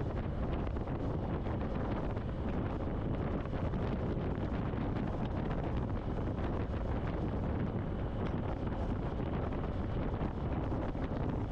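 Steady wind rushing over the microphone of a rider on a moving motorcycle, a dense low rumble of air with no break.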